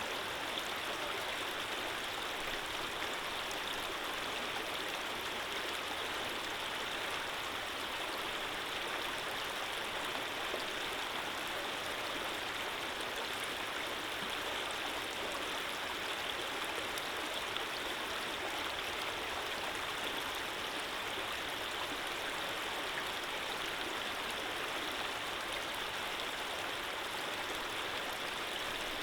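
Water running and splashing in a steady, unbroken flow, like a stream.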